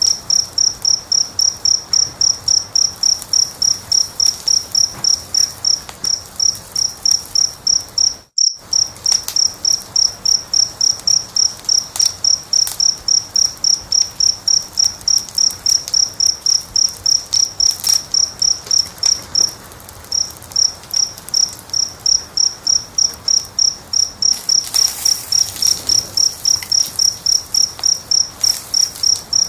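A cricket chirping steadily, about three high chirps a second, with a short break in the chirping about two-thirds of the way in. Under it, faint scattered crackles and pops of a wood fire; all sound cuts out for a split second about a third of the way in.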